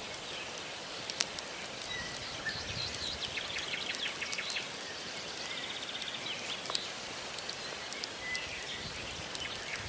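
Campfire of burning logs crackling, with scattered sharp pops over a steady hiss, while small forest birds chirp and give a quick trill in the background.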